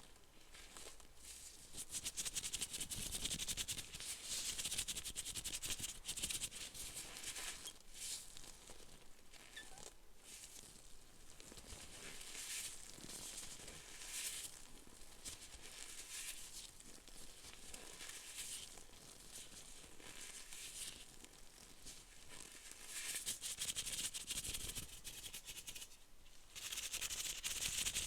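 Close-miked ASMR trigger sounds: dense, fine crackling and scratching that swells and fades in waves of a few seconds, loudest near the start and again near the end.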